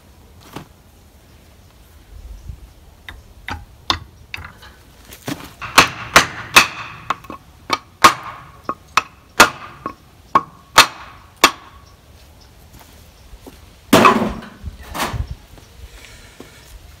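Irregular sharp knocks and clanks of hand tools working on the hydraulic cylinder's piston nut, about a dozen strikes with some ringing, and a longer, louder clatter about fourteen seconds in.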